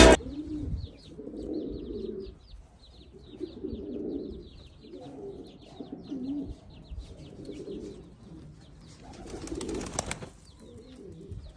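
Domestic pigeons cooing in repeated low warbling phrases, with faint, rapid high chirps over them and a single sharp click near the end.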